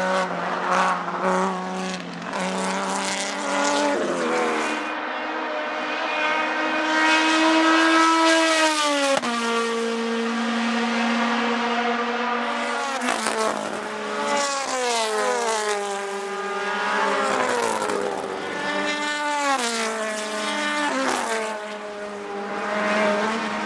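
Racing car engine running hard, its pitch climbing and then dropping sharply several times over the stretch.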